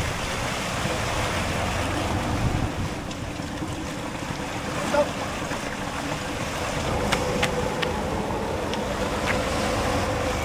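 Wind buffeting the microphone over the sound of sea waves on open water. A faint steady hum joins about seven seconds in.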